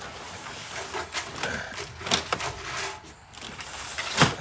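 Sheets of tin roofing being handled and set down, a series of knocks and rattles with the loudest knock near the end.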